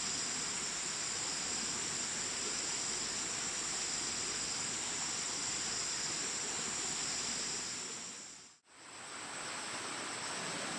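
Steady outdoor ambience: a high, even insect drone over a constant hiss. It fades out briefly about eight and a half seconds in, then fades back in.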